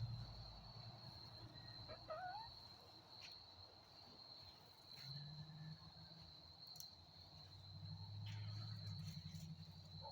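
Crickets chirping in a faint, steady, high trill, with a short rising call about two seconds in and a low hum coming in from about five seconds on.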